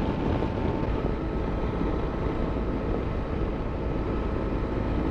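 Motorcycle running at a steady cruising speed, heard from the rider's position.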